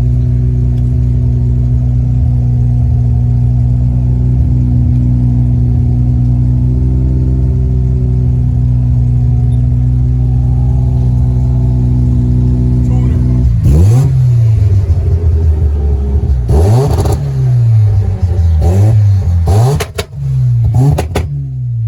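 A car engine running at a steady speed, then revving up and down hard several times from about 14 s in, with loud bursts of noise among the revs.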